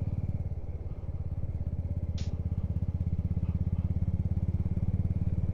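Motorcycle engine running while riding, a steady low pulsing beat that dips about a second in and then slowly builds again. A short hiss about two seconds in.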